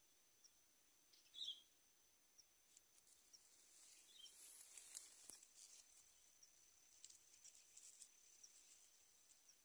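Near silence: faint outdoor ambience with a thin, steady high tone, scattered faint ticks, and one short high chirp about one and a half seconds in.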